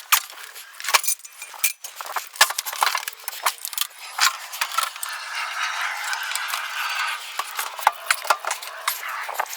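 Tools and metal parts being handled and set down: irregular clinks and knocks, with a few seconds of scraping or rustling about halfway through.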